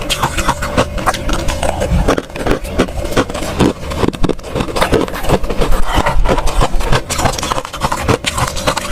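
Close-up chewing of crunchy freezer frost: a dense, continuous run of crisp crunches and crackles.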